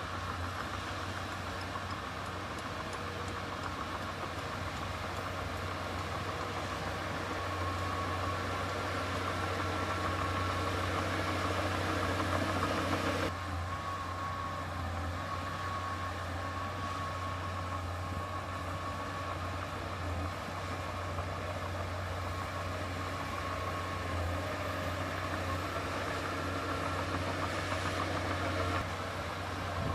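Heavy diesel engine of earth-moving machinery running steadily, with a low hum and a faint intermittent whine; the sound changes abruptly about thirteen seconds in.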